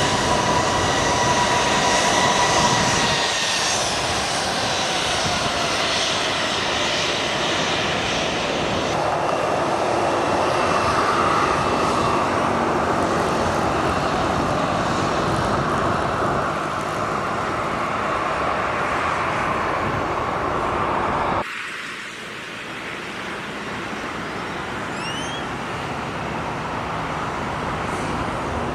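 Boeing 737-700's CFM56-7B turbofan engines running loud, with a steady whine over the jet noise in the first few seconds. About three-quarters of the way through, the sound drops suddenly to a quieter, duller rumble.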